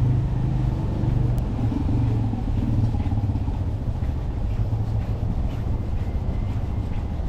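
A motor vehicle's engine running close by, a steady low rumble that eases a little after the first second.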